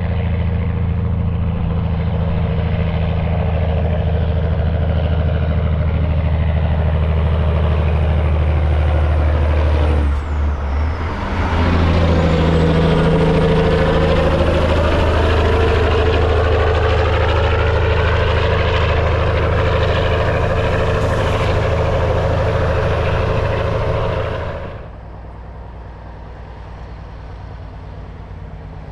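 Semi truck running loud, with a steady low engine note and a thin high whine. The sound dips briefly about ten seconds in, the whine falling away and then rising back, before the truck pulls again. Near the end it drops off sharply to a lower rumble.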